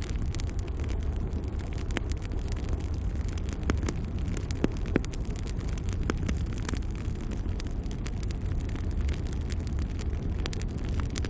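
Logs burning in a fireplace: a steady low rumble of the flames with irregular crackles and pops throughout, a couple of sharper pops around four and five seconds in.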